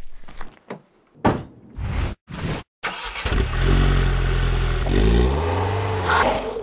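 Opel ADAM S's 1.4-litre turbocharged four-cylinder engine revving, its pitch climbing in steps, from about halfway in. Before it, a few short separate sounds broken by sudden silences.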